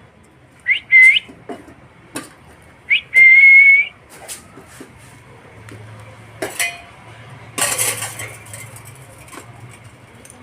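Pet parrot whistling: two short rising whistles about a second in, then a longer, steady, loud whistle around three seconds in. Scattered clicks and a brief rustle about eight seconds in.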